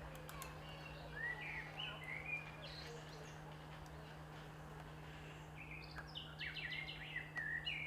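A small bird chirping in two bouts: a few short sliding chirps about a second in, then a quick run of rapid chirps near the end. A steady low hum runs underneath.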